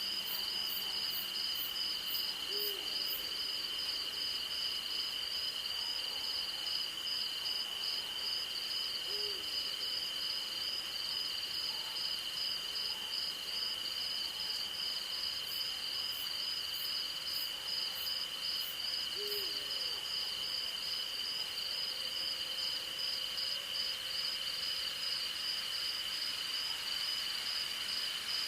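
Night insect chorus of a steady high shrill drone and a fast pulsing cricket trill, with an owl giving three short, low hoots several seconds apart.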